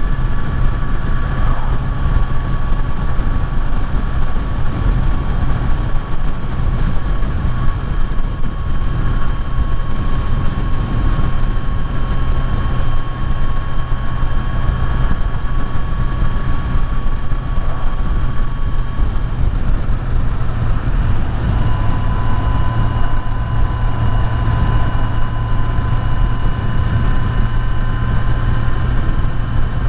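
Kawasaki Z900's inline-four engine running steadily under way, a steady whine over a low rumble. About two-thirds of the way through, the pitch steps down slightly and stays there.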